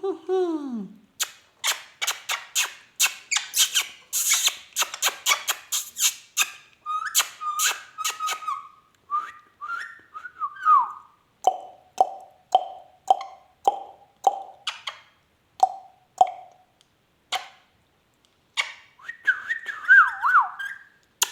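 Ringneck parakeet vocalising: a few seconds of rapid harsh chatter, then whistled glides, then a run of short, evenly spaced call notes at about two a second, and falling whistles near the end.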